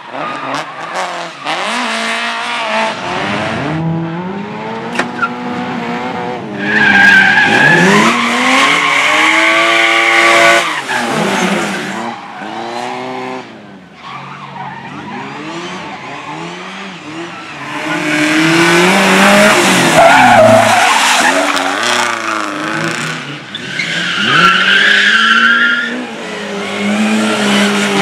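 Slalom competition car driven hard through a cone course, its engine revving up and dropping back again and again between turns. Several bursts of tyre squeal ride over the engine as the car is thrown into the corners.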